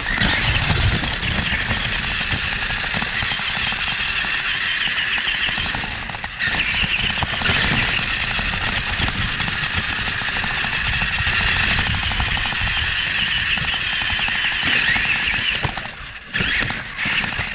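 Motor and gear whine of an RC 4x4 buggy driving, heard from a camera mounted on the car. It breaks off briefly about six seconds in and stops about a second and a half before the end.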